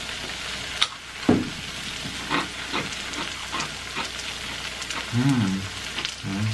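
Oil and melted cheese sizzling in a hot frying pan, a steady hiss with scattered sharp clicks. A short hummed voice sounds about five seconds in and again near the end.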